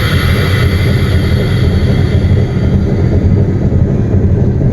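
Diesel switcher locomotive's engine running steadily at low throttle, a loud low rumble heard inside the cab. A hiss fades away in the first second or two.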